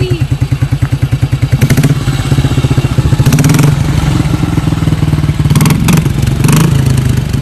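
BMW R26 single-cylinder four-stroke engine running cold, first at a steady thumping idle, then picking up to a faster, louder beat about a second and a half in, with a few short rattling clatters over it.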